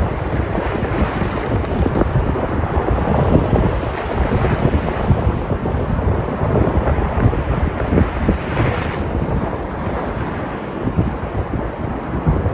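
Sea surf breaking on the shore in a continuous wash, with wind buffeting the microphone in low rumbling gusts. About eight and a half seconds in, a wave breaks with a brighter hiss.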